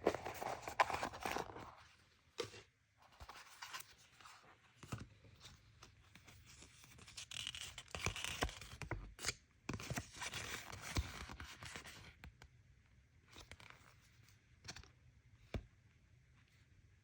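Toy packaging being opened by hand: bursts of tearing and scraping, with a few sharp clicks, quieter after about twelve seconds.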